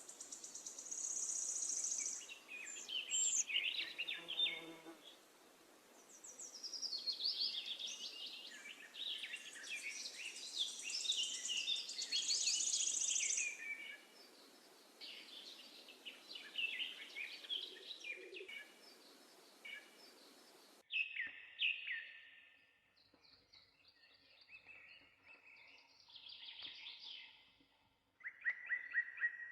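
Birdsong: several songbirds chirping and trilling, with many short overlapping calls. A soft steady hiss underneath cuts off suddenly about two-thirds of the way through, while the birds carry on.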